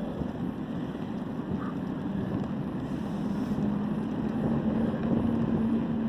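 Wind rushing over the microphone of a camera on a moving bicycle, slowly growing louder, with a steady low hum coming in about halfway through.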